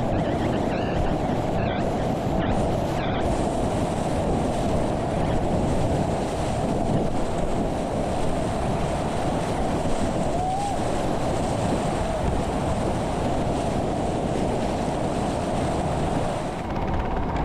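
Steady rush of whitewater rapids churning around a kayak.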